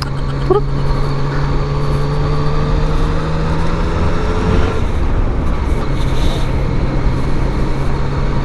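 Yamaha MT-09's three-cylinder engine running at a steady cruising pace, with wind rushing over the microphone. The engine note drops slightly about halfway through.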